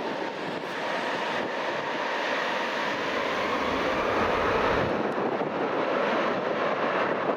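Aircraft engine noise growing gradually louder as a plane nears, with strong wind buffeting the microphone and a low rumble about four seconds in.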